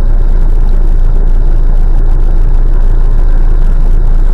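Loud, steady vehicle rumble: engine and road noise from a moving vehicle, heavy in the low end, with no distinct impact.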